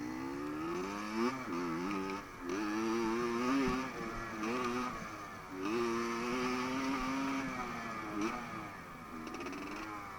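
Dirt bike engine running, its pitch rising and falling repeatedly as the throttle is blipped and eased off.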